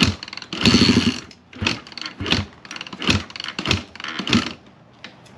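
Single-cylinder four-stroke engine of a 2006 KTM 250 SXF dirt bike, blipped in a series of short revs, dying down near the end. The engine is freshly rebuilt and blowing oil smoke out of the exhaust.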